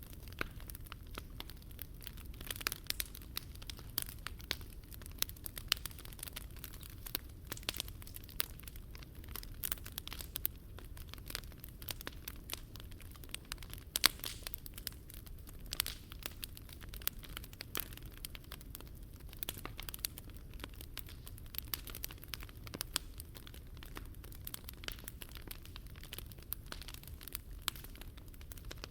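Wood fire crackling in a fire pit: dense, irregular small pops and snaps over a steady low rumble, with one louder pop about halfway through.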